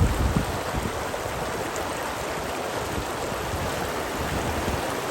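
Steady rush of running rainwater, with a few low wind buffets on the microphone at the start.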